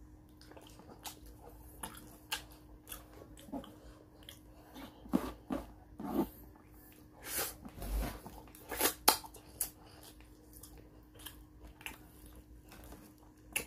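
A person chewing fried fish with rice, with irregular wet mouth clicks and smacks. A faint steady hum sits underneath.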